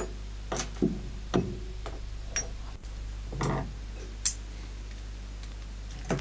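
Scattered light clicks and taps, about seven spread irregularly, from small compressor parts and hand tools being handled while an air suspension compressor is taken apart. Under them runs a steady low hum.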